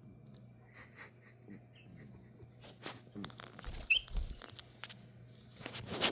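Pet lovebirds giving a few short, high chirps among light clicks and scuffles, then a burst of wing flapping as they take off near the end.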